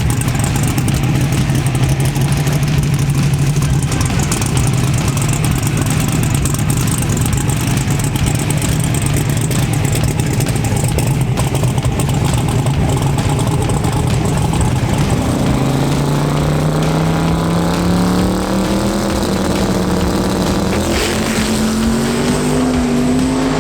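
Drag-racing car engine running at a steady pitch, then from about fifteen seconds in revving higher in a slow stepped climb.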